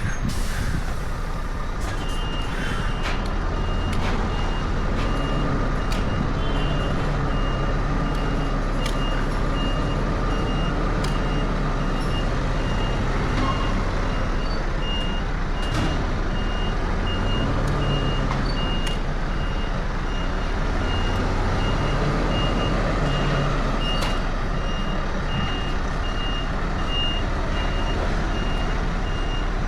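Truck reversing alarm beeping at an even pace over a heavy truck's diesel engine running at low revs; the beeping begins about two seconds in.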